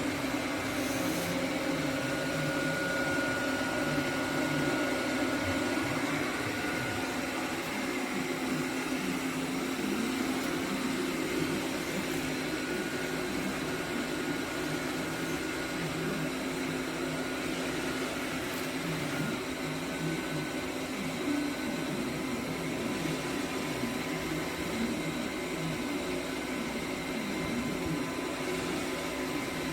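Cecotec Conga 7490 robot vacuum cleaner running, a steady motor hum with suction noise and no change in level.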